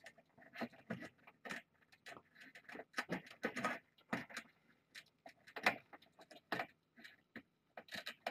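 Irregular clicks, light knocks and rattles of things being handled, coming unevenly a few times a second.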